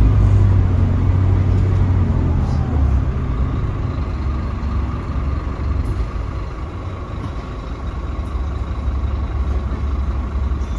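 Scania K310UB bus engine running while the bus is under way, with a deep rumble that is strong for the first few seconds, then eases off to a quieter steady drone.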